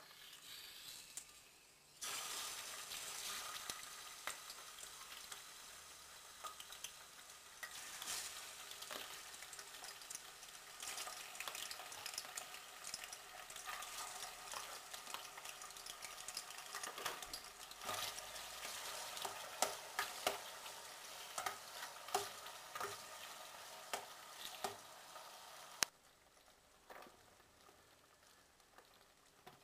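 Diced chicken sizzling in hot cooking oil in a steel saucepan. The sizzle starts suddenly about two seconds in as the pieces go into the pan, with clicks and scrapes from a metal utensil stirring against the pan. It drops away sharply near the end.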